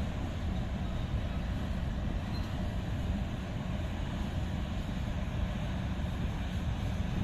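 Steady low rumble of a train, even and unbroken, with no distinct clanks or squeals.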